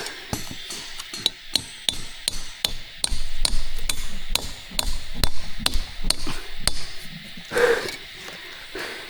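Repeated sharp knocks, like hammer blows, two or three a second, heaviest in the middle and thinning out. A short call cuts in a little past halfway through.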